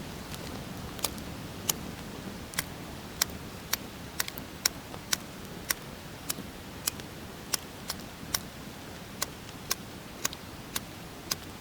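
Wet-wood campfire lit with petrol burning, with sharp crackling pops about twice a second over a steady hiss of flame.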